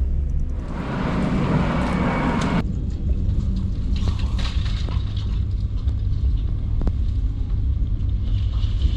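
Heavy engine running with a steady low rumble. About a second in, a loud rushing noise lasts about two seconds and cuts off sharply.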